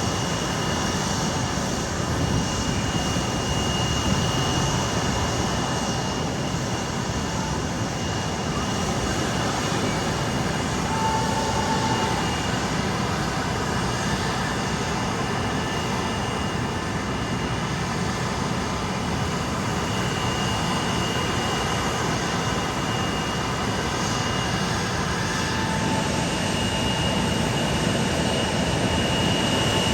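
Jet airliner engines running, a steady rush with a thin high whine that fades in and out.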